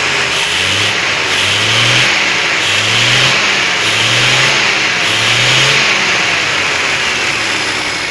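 Peugeot 504's four-cylinder petrol engine running and being revved in short throttle blips about once a second, then settling into steadier running near the end.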